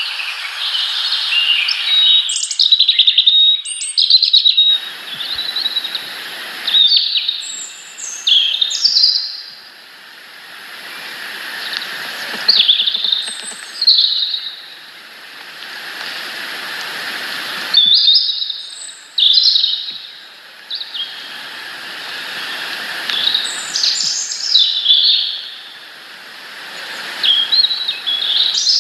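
Small birds chirping in repeated clusters of short, high notes, many sweeping downward, over a background hiss that swells and fades every several seconds.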